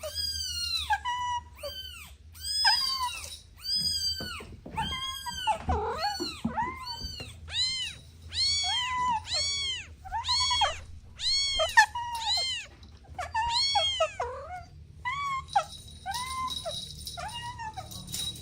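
Kittens meowing over and over in high, thin calls that rise and fall in pitch, about one or two a second, at more than one pitch so that more than one kitten is calling. The meows stop near the end, leaving a faint steady high hiss.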